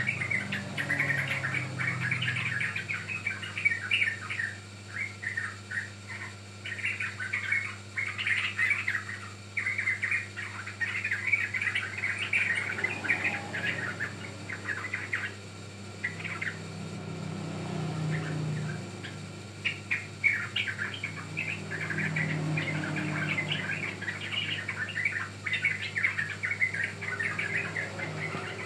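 Yellow-vented bulbuls calling in rapid chattering runs of short, bright chirps, with a few brief pauses, over a faint low hum.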